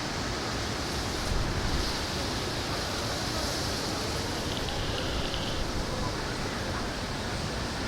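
Steady wind noise buffeting the microphone, with a brief gust about a second in.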